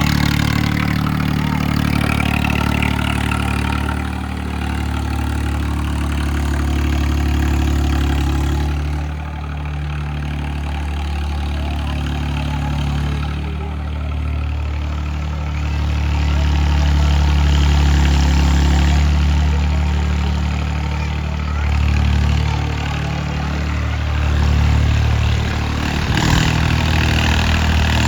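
Tractor diesel engine running steadily, its loudness easing and swelling a few times.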